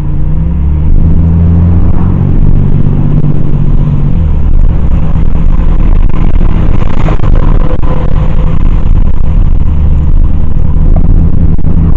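Car engine and road noise heard from inside a moving car, loud and steady; the engine note climbs, then drops about four seconds in.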